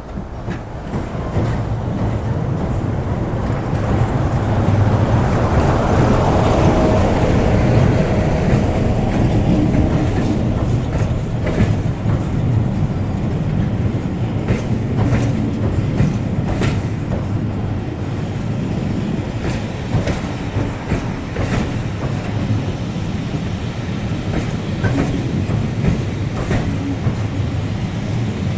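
A train running past, loud and close, its wheels clacking over the rail joints; the rumble swells over the first few seconds and then holds steady.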